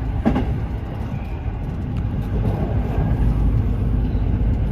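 Train running noise: a steady low rumble, with one brief sharp sound about a third of a second in.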